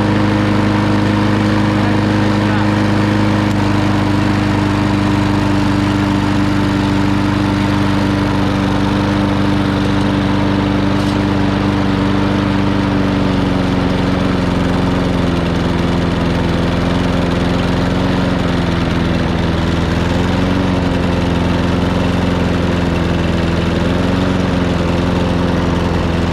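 Small gasoline lawn mower engine, started cold on propane fed into its air intake, running at a steady speed. About halfway through its note sags slightly and begins to waver up and down.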